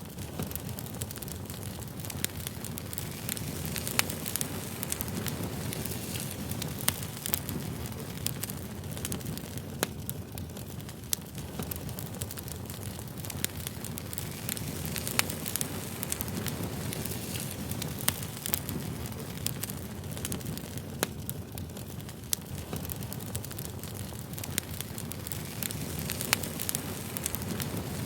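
Campfire burning with a steady low rush and frequent sharp crackles and pops of the wood.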